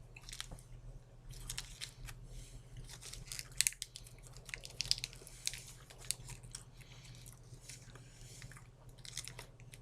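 Close-up mouth sounds of someone biting and chewing a piece of Colby habanero cheese stick: irregular soft wet clicks and smacks, over a faint steady low hum.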